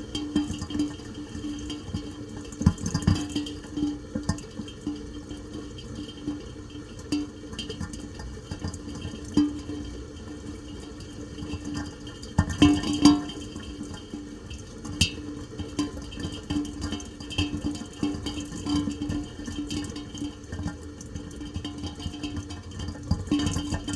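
Steady rain with irregular drips and splashes, and a louder burst about halfway through.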